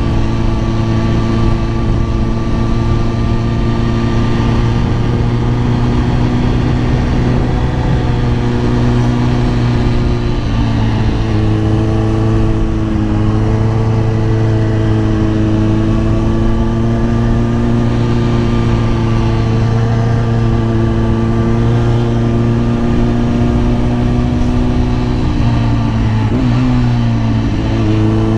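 Kawasaki ZX-10R inline-four engine running steadily under way at cruising revs. Its note shifts to a new pitch about ten seconds in and dips briefly near the end.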